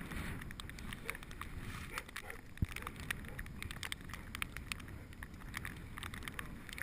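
Bicycle riding over snowy ground: a low rumble of tyres and wind on the microphone, with many small clicks and rattles and a sharper knock about two and a half seconds in.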